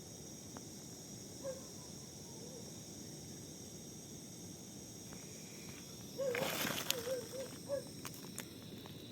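Insects chirring steadily at a high pitch. A short wavering call comes through a few times, with a louder rustling burst a little past the middle.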